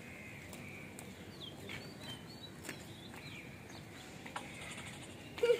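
Faint outdoor ambience with scattered short bird chirps and calls. Just before the end comes a brief, louder pitched call.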